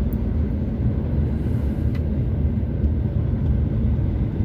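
Steady low drone of a long-haul truck's engine and road noise, heard from inside the cab while cruising at about 60 km/h.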